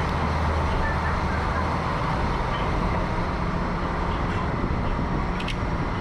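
KiHa 40 diesel railcar running, heard from inside the carriage: a steady low engine drone under a wash of running noise. The drone changes about two seconds in, and a few short clicks come near the end.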